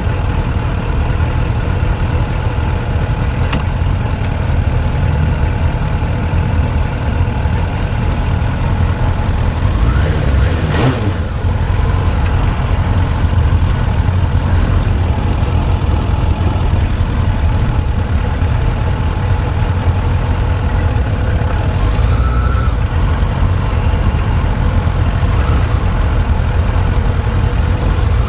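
Motorcycle engine running during a ride, heard from a camera on the fuel tank, a steady low rumble with a brief rise and fall in pitch about eleven seconds in.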